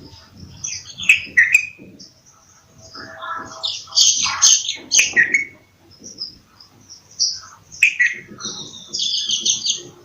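Bulbul calling: a series of short chirps and whistled notes. The busiest, loudest stretches come around the middle and in a quick run of notes near the end.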